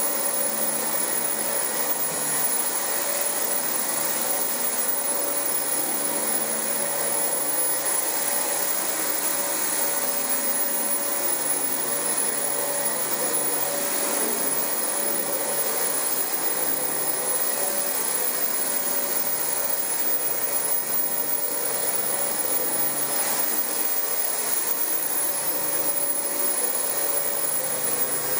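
Dyson DC25 upright vacuum cleaner running steadily on carpet, its motor giving a constant rushing noise with a thin high whine.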